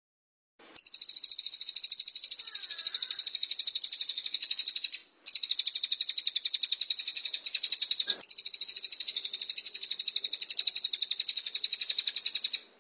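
A songbird's long, rapid, even trill of high repeated notes. It breaks off briefly about five seconds in, and there is a click a little after eight seconds.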